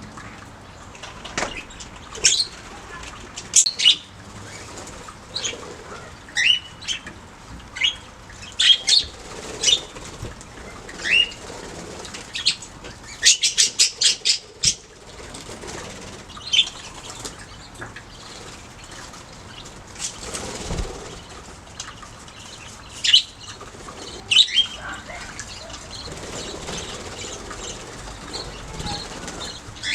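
Budgerigars chirping: short, sharp, high calls coming in scattered bursts, with a quick run of calls about thirteen seconds in.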